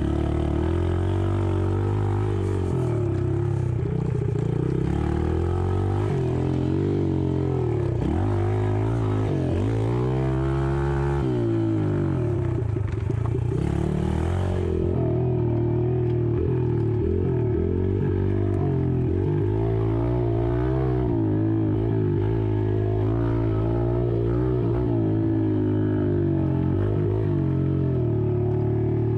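Yamaha TT-R110 dirt bike's small single-cylinder engine being ridden, its pitch rising and falling as the throttle opens and closes, with a sharp rev-up about ten seconds in.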